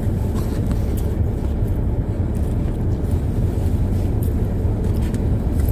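Steady road and engine rumble of a car heard from inside the cabin while driving.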